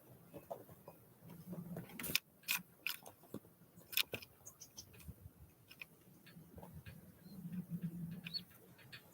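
Small wild birds at a feeder: irregular sharp taps and clicks of pecking and hopping, loudest about two to four seconds in, with a few faint high chirps.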